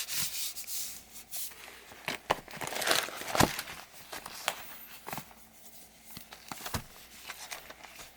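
Hands handling and rubbing a book's paper and cover: irregular rustling swishes with sharp clicks and taps, busiest about three seconds in and quieter toward the end.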